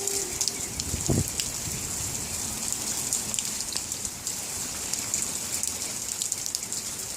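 Steady rain falling, a continuous hiss dotted with many small drop ticks. A single dull thump about a second in.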